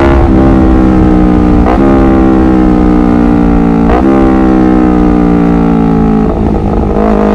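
Honda CBR250RR motorcycle engine running under way, its pitch slowly falling with brief sharp breaks about two and four seconds in, and a rougher patch near the end before the revs climb again.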